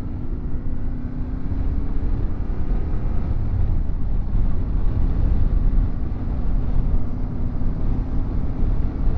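Yamaha Ténéré 700's parallel-twin engine running steadily at cruising speed, with a constant rush of wind on the microphone.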